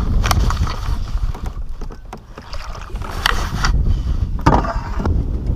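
Wind rumbling on the microphone in a kayak on open water, with a few short knocks and rustles from handling gear, about a third of a second, three seconds and four and a half seconds in.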